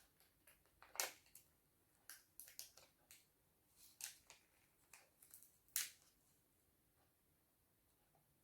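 Scattered light clicks and taps of craft materials being handled while journaling, the sharpest about a second in and near six seconds; they stop about six seconds in.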